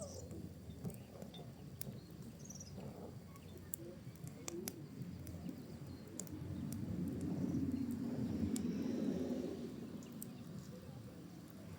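A wood and pinecone fire crackling, with scattered sharp pops and snaps over a low rumble of burning that swells for a few seconds in the middle.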